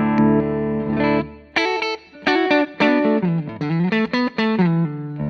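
Electric guitar played with a clean tone: a Kiesel Zeus headless guitar on an in-between pickup position through a Hughes & Kettner Tubemeister Deluxe 20 tube amp, with a little reverb. A held chord rings first, then a run of short picked chords and notes with a slide down and back up around the middle, ending on a ringing note.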